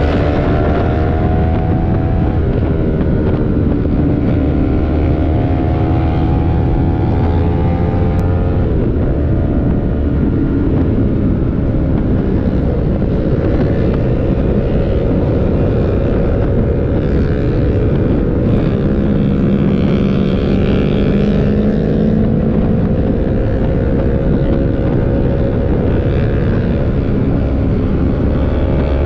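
Yamaha R3's parallel-twin engine under way, revs climbing and then dropping at gear changes, twice in the first ten seconds, then pulling more steadily.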